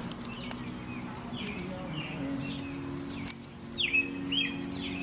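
Small birds chirping, a string of short falling chirps, over a low steady hum.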